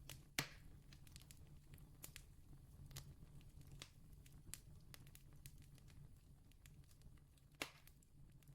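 Campfire crackling softly: scattered small ticks and pops over a low steady rumble, with two louder pops, one about half a second in and one near the end.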